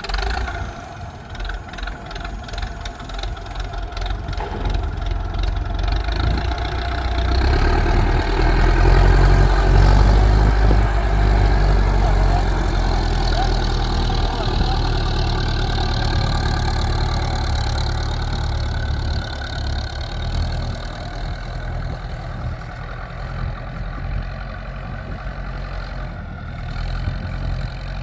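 An engine running steadily with a deep rumble. It comes in suddenly at the start and grows louder over the first several seconds, then holds and eases off slowly.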